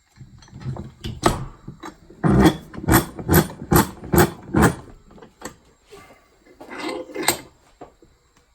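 Metal tools and a steel ball joint press being handled against a steering knuckle: scattered clunks, then a run of about six even, sharp knocks in quick succession, and a last knock near the end.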